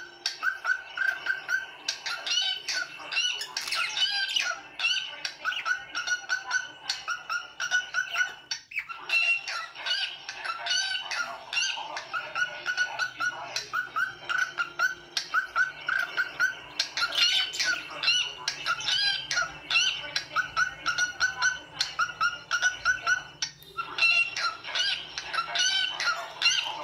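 Small birds chirping and squawking in a rapid, continuous chatter of short repeated notes, with brief breaks about a third of the way in and near the end.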